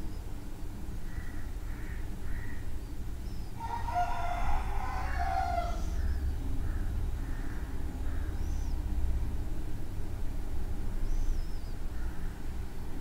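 A bird's long call lasting about two seconds, about four seconds in, followed by a couple of short high chirps, over a steady low rumble.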